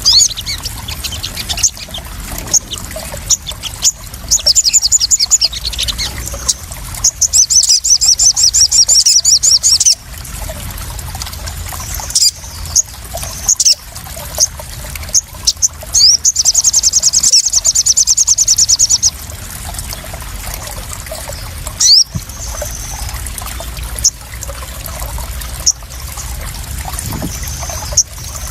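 Crimson sunbird (sogon) calls: very fast, high-pitched trills in three long runs, with sharp single chirps between them. These ride over steady trickling, splashing water. The trills are the loudest part.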